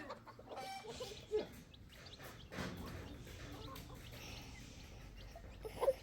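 Chickens clucking now and then, a few short calls, most in the first second and a half and one near the end.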